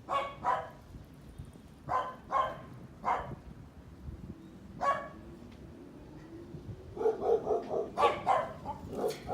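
A dog barking: single and paired barks spaced a second or two apart, then a faster run of barks near the end.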